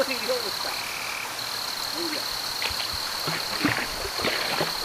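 Animal chorus: a steady high-pitched trill, joined by a second, lower steady call for about half a second near the start, with scattered soft clicks and knocks.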